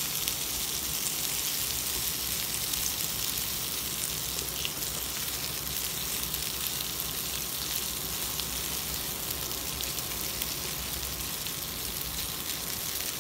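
Chicken breast pieces sizzling steadily in hot oil in a frying pan.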